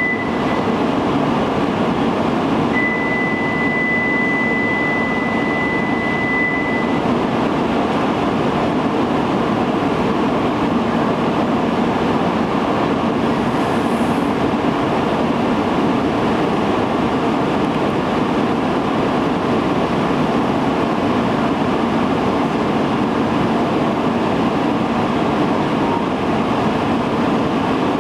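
Tohoku Shinkansen train at a station platform, a loud steady rumble of the train running. A steady high electronic beep sounds for about four seconds near the start.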